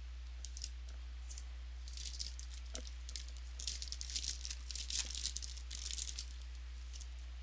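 Trading cards and their packaging being handled, crinkling and rustling. A few light clicks come first, then a dense run of crinkling from about two seconds in to about six seconds, over a steady low electrical hum.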